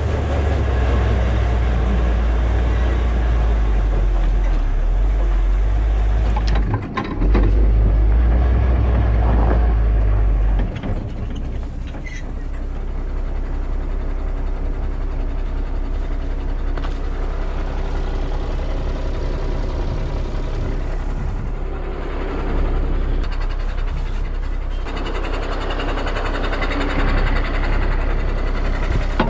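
Heavy tow truck's diesel engine running, with a deep low rumble that drops away about ten seconds in, leaving a steadier, lower engine note.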